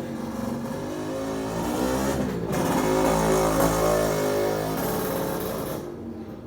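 A motor vehicle's engine passing by, growing louder to a peak around the middle and then fading away.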